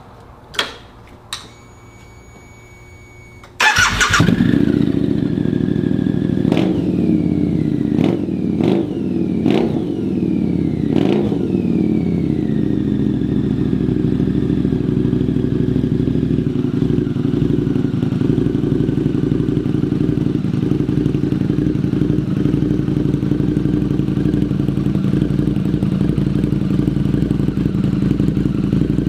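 Harley-Davidson motorcycle V-twin engine: two small clicks, then the engine starts suddenly about three and a half seconds in. It is blipped sharply about five times, the revs falling back after each, and then settles into a steady idle.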